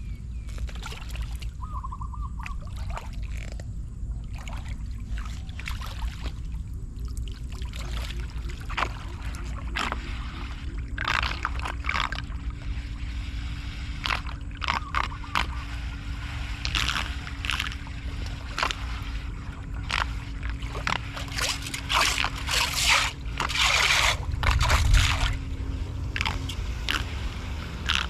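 Debris being scraped and pulled through shallow floodwater over a blocked street drain, with water sloshing and gurgling over a steady low rush. The strokes come irregularly and grow busier from about ten seconds in. A faint steady hum runs under most of it.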